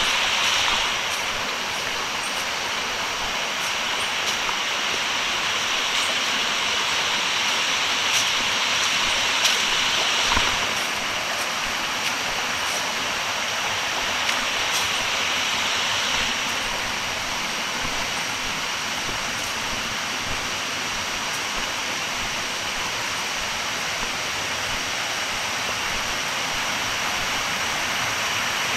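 Steady rushing of river water, a continuous hiss that swells and eases slightly, with a few faint clicks and knocks.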